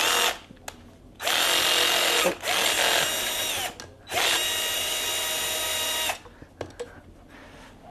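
Electric drill-driver spinning out the bolts of a dual-clutch gearbox's shift actuator motor. A short blip, then two runs of about two seconds each, every run winding up and down in pitch.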